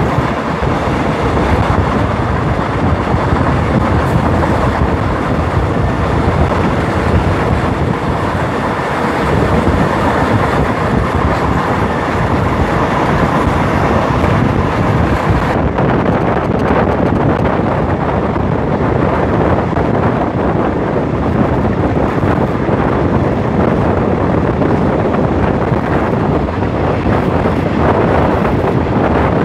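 Diesel-hauled Thai passenger train running along the track, heard from an open carriage window: a steady rumble of wheels on rails mixed with wind buffeting the microphone. The high hiss drops away about halfway through.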